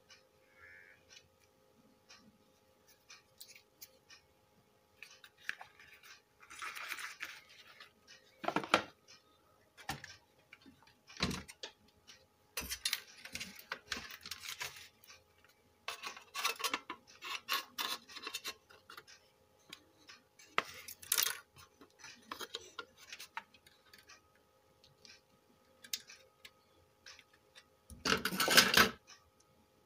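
Small metal parts and tools clinking, clicking and scraping in irregular bursts while a car stereo's amplifier IC is refitted to its heatsink, with a longer, louder stretch of rattling and scraping near the end.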